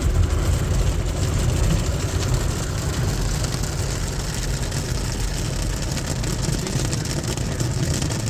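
2001 Ryko Softgloss XS2 rollover car wash running over the car with its foam brushes and water, heard from inside the car: a steady low rumble under an even wash of noise.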